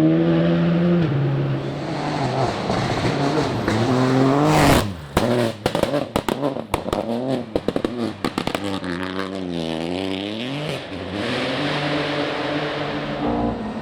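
A rally car's engine revving hard on a forest stage, its pitch climbing through a gear change, then cut off sharply about five seconds in. For the next few seconds comes a rapid run of sharp cracks and pops. Then the engine revs down and back up again and runs on steadier.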